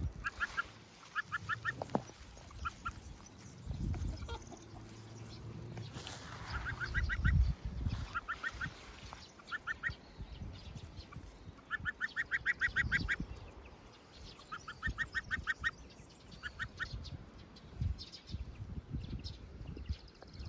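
A gosling calling in quick strings of short, clipped notes, several strings a few seconds apart, over a low rumble.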